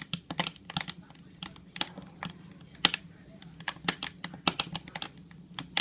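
Firewood burning in a wood stove, crackling and popping in sharp, irregular snaps.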